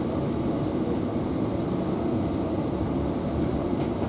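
Steady low rumble of a passenger train coach rolling slowly into a station, heard from inside the carriage, with a few faint light clicks.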